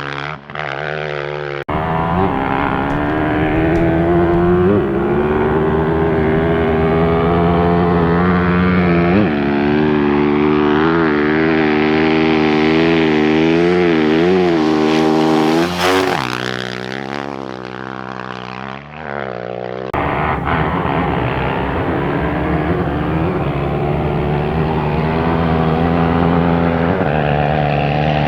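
Off-road racing motorcycle engines running at speed, their pitch rising and falling as the riders work the throttle. The sound changes abruptly twice, like cuts between clips.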